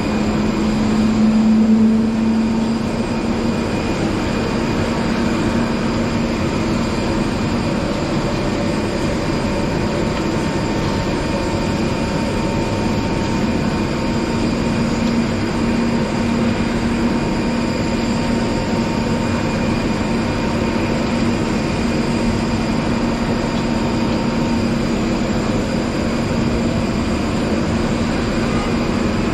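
Steady mechanical hum and whine of ground machinery at a parked Airbus A320 on the apron, several constant tones over a noise bed, swelling slightly about two seconds in.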